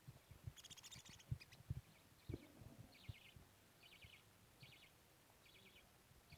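Budgerigars chattering faintly in short, rattling chirps that repeat about once a second, with a brief, brighter buzzy burst near the start. Soft low taps and knocks come and go throughout.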